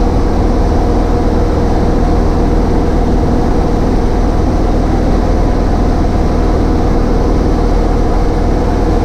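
Cessna 152's four-cylinder Lycoming engine and propeller running steadily at an even pitch, with a deep hum and a constant drone.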